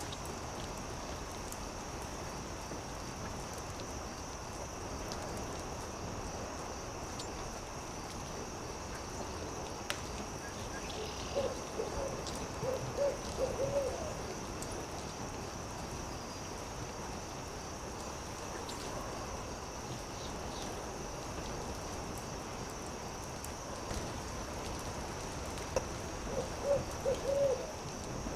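An owl hooting in two bouts of several short, quick hoots, one near the middle and one near the end, over scattered snaps of a crackling campfire and a constant high-pitched drone.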